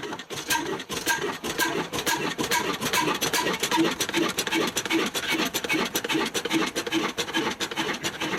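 Old black slow-speed diesel engine running steadily, beating about two and a half times a second with a dense clatter of clicks, as it drives a flour mill (atta chakki) with a rasping, grinding sound.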